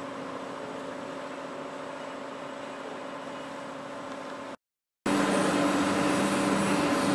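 A vehicle engine running steadily, with a steady hum of a few tones. It cuts out abruptly about four and a half seconds in, then after a half-second gap a louder engine hum starts.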